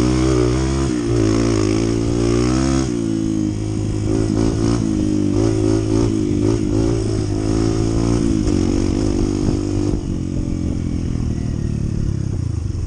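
Honda CT125's small single-cylinder four-stroke engine running under way, its pitch rising and falling with the throttle. The sound changes about three seconds in and eases off about ten seconds in.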